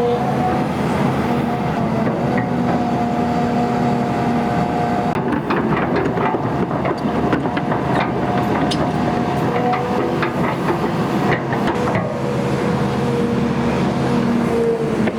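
XCMG XE310GA crawler excavator working, its engine running steadily with a whining tone, with scattered metallic knocks and clanks through the middle and again near the end.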